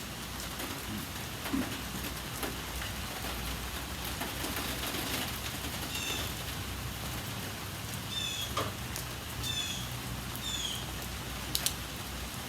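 Steady rain falling, with a few short high chirps in the second half and a single sharp click near the end.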